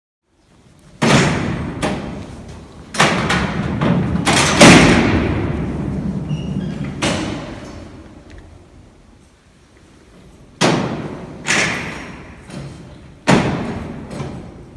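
Alcatraz's sliding steel cell doors being racked: heavy metallic clanks and bangs, four in the first five seconds and three more near the end, each ringing out with a long echo.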